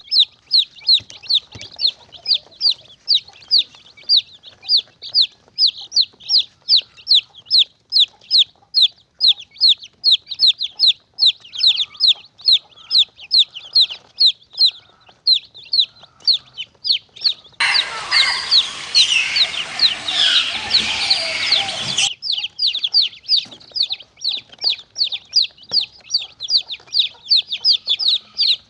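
A chick peeping over and over: short, high, falling peeps at about two or three a second. About two-thirds of the way through, a louder rough rustling noise sets in for some four seconds, then stops abruptly and the peeping carries on.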